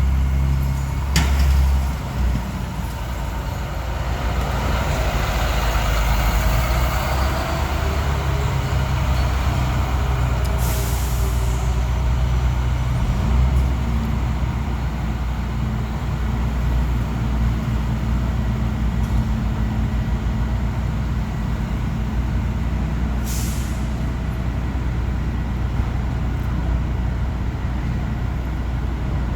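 Recycling truck engine running steadily, with short air-brake hisses about a second in, around eleven seconds and near twenty-three seconds.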